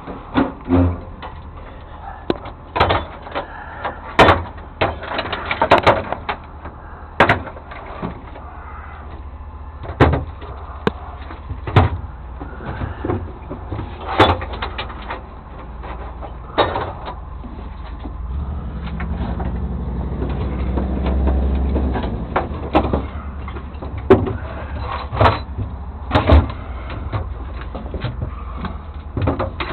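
Repeated knocks and clunks of truck doors and compartments being opened, shut and handled, over a steady low engine rumble. About two-thirds of the way through, an engine note swells and then fades.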